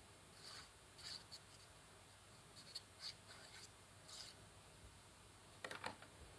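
Faint paper handling: short rustling and rubbing strokes as paper pictures are glued and pressed into a notebook, with a quick cluster of clicks near the end.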